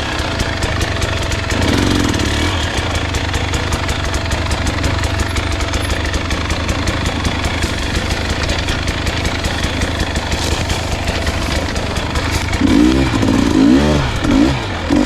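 Dirt bike engine running at low speed over rough, rocky trail, its pitch rising and falling a few times near the end.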